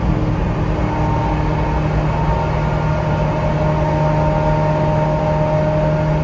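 Ferrari F355's 3.5-litre V8 engine and exhaust running at a steady, even note while driving, heard from inside the cabin.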